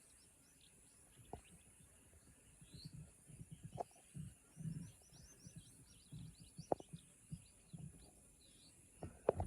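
Faint outdoor ambience: many small bird chirps, a steady high-pitched hiss, soft low thumps and a few sharp clicks.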